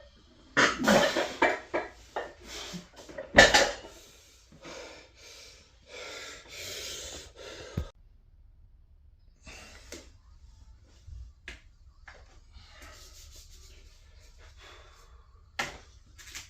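A person breathing hard with a run of forceful exhales, with a sharp knock about three and a half seconds in. Quieter rustling follows, and another knock comes near the end.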